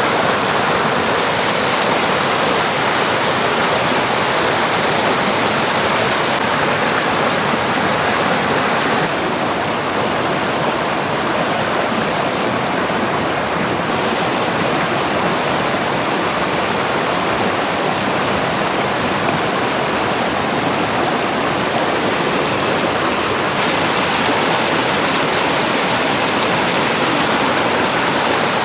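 Steady rushing water. Its tone and level shift slightly and abruptly a few times.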